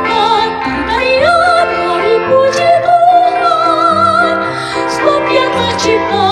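Church choir singing in several parts, the high voices holding long notes with vibrato over lower sustained parts.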